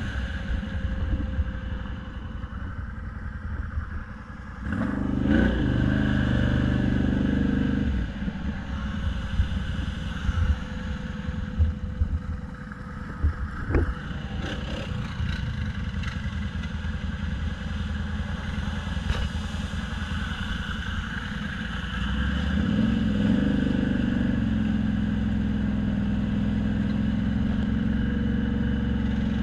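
A motor vehicle's engine running, with the engine note rising about five seconds in and again near the end, and a few sharp knocks in the middle.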